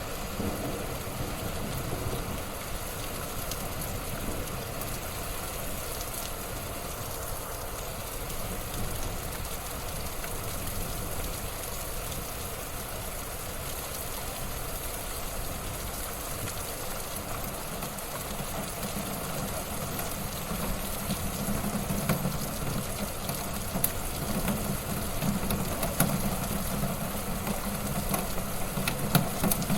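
Wood fire burning in a fireplace: a steady low rushing of flames with scattered crackles and pops, which come more often and louder in the second half.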